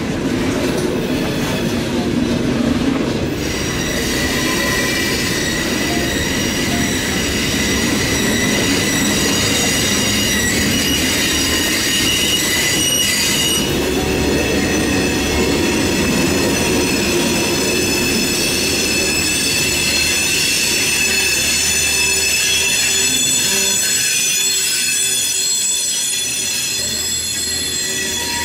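Norfolk Southern freight train's open-top hopper cars rolling past with a steady rumble, and their wheels squealing in several high, ringing tones from about three seconds in.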